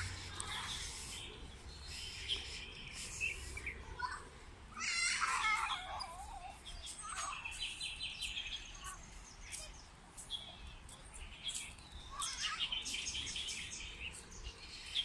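Several birds chirping and singing, with quick repeated trills high in pitch. About five seconds in, a louder wavering call falls in pitch.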